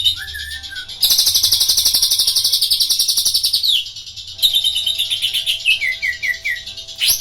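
Greater green leafbird (cucak ijo) singing in the cililin style: a long, fast, high-pitched trill of rapidly repeated notes, then a run of short falling notes near the end.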